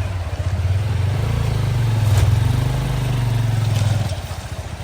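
Honda XR150L's single-cylinder four-stroke engine running as the motorcycle is ridden over a rough road, easing off about four seconds in.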